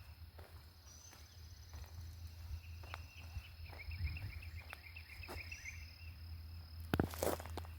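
Garden ambience: insects droning on a steady high note, with a run of quick chirps in the middle. There are faint scattered clicks, and a couple of louder rustling thumps near the end.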